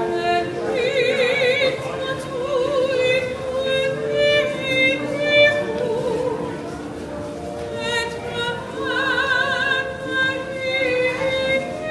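Operatic singing in a high voice with strong vibrato and long held notes, over steady sustained lower notes.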